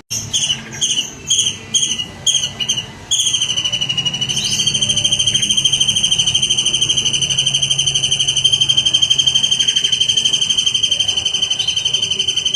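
A songbird singing: a run of about seven short whistled notes, then one long, fast, even trill that stops near the end.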